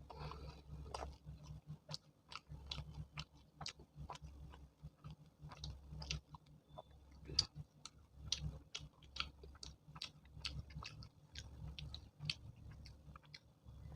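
A person chewing chole bhature close to the microphone: irregular mouth clicks and smacks as the food is chewed, with one sharper click about seven seconds in.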